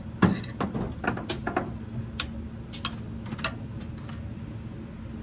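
Metal parts and tools clinking and knocking in irregular sharp clacks while a rear differential's bearing caps and parts are handled.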